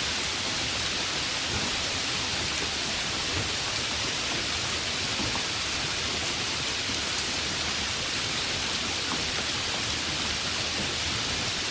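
Heavy rain falling steadily, a constant even hiss with scattered faint drop ticks.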